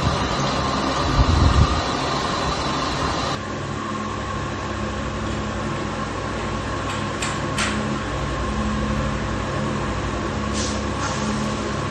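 Steady mechanical hum of a running machine, with a few low thumps in the first two seconds. The sound changes abruptly a little over three seconds in, and there are a couple of short hisses later.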